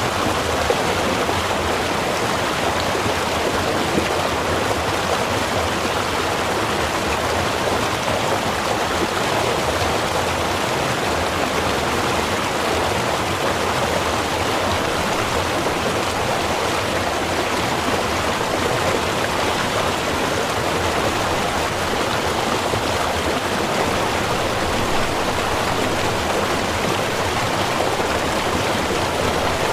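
Small river or stream running steadily, a constant rushing and burbling of water.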